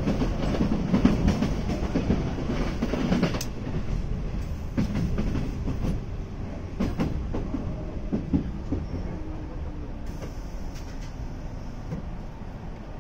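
Onboard running sound of a JNR Class 185 electric train: a steady rumble with wheels clicking over rail joints. The clicks grow sparser and the sound fades steadily as the train slows for its station stop.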